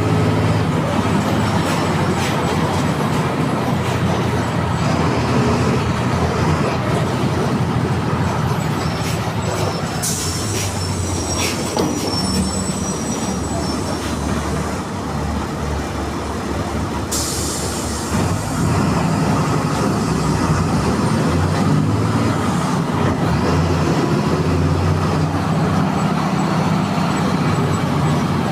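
MWM 6.12 TCE 7.2-litre six-cylinder turbo-intercooled diesel of a VW 17-230 EOD bus running. The engine note eases off in the middle and picks up again about two-thirds of the way in.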